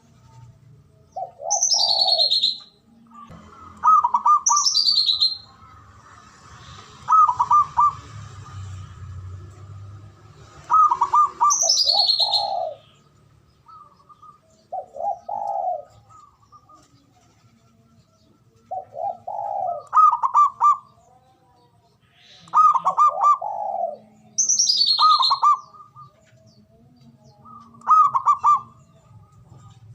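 Zebra dove (perkutut) singing: repeated phrases of quick trilled coos, with lower rounded notes and high falling chirps among them, a phrase every few seconds.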